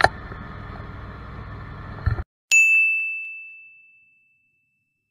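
Steady background noise cuts off suddenly about two seconds in, followed by a single bright bell ding that rings out and fades away over about a second and a half: an added sound effect at the end of the video.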